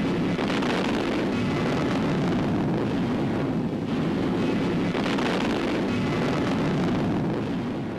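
Steady drone of aircraft engines, even in level throughout.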